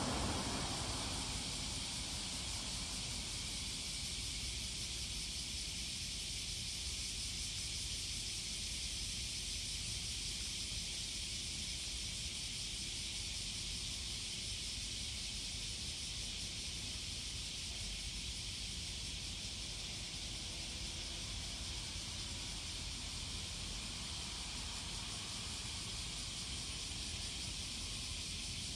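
The tail of a passing Tokaido Shinkansen train fades out over the first second or two, leaving a steady outdoor hiss over a faint low rumble of the town.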